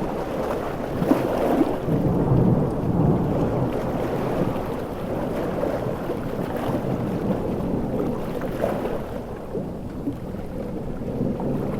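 Storm ambience: a low rumble of thunder over steady heavy rain and crashing surf, swelling about two seconds in.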